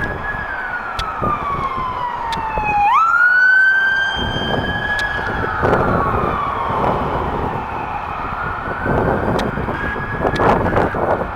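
Emergency vehicle siren on a slow wail: the tone falls over about three seconds, snaps back up, then keeps rising and falling slowly, over the rumble of passing vehicles.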